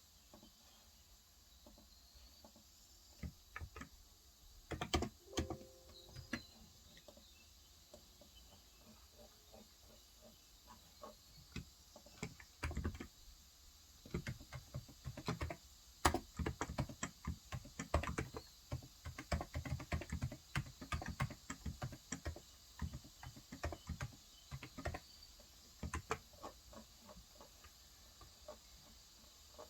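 Typing on a Cox Endeavor electrostatic capacitive (Topre-style) tenkeyless keyboard with 35 g switches. A few scattered keystrokes come at first, then steady, fast typing from about halfway through.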